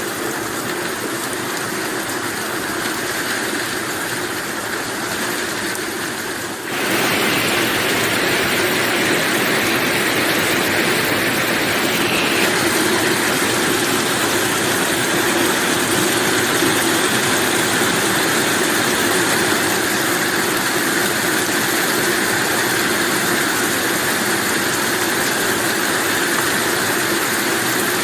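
Steady heavy rain, a dense even hiss that turns suddenly louder and brighter about seven seconds in.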